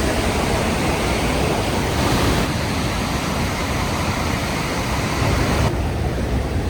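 Rhine Falls waterfall roar: a dense, steady rush of falling water with a heavy low rumble. The high hiss thins abruptly about two and a half seconds in and again near the end.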